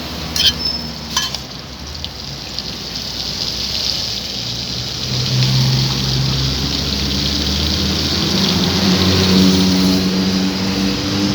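Street traffic noise with a motor vehicle engine running, its low hum growing louder from about four seconds in. Two sharp metallic clinks sound about half a second and a second in.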